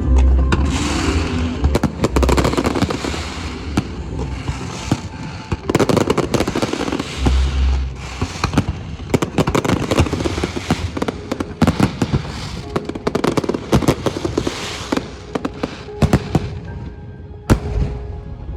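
Aerial fireworks bursting: deep booms mixed with rapid crackling bangs, thinning out near the end.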